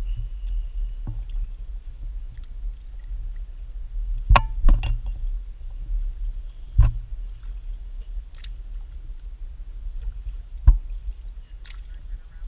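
Kayak paddling: a steady low rumble with four sharp knocks, two close together about four seconds in, one near seven seconds and one near eleven, as the paddle strikes the kayak's hull.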